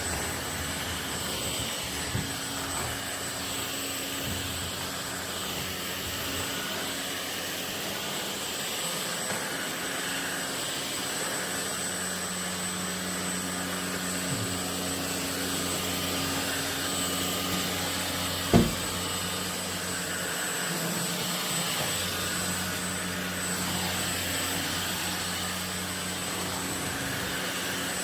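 Ultenic U16 Flex cordless stick vacuum running steadily, a constant rushing noise with a thin high whine. A single sharp knock comes about two-thirds of the way through.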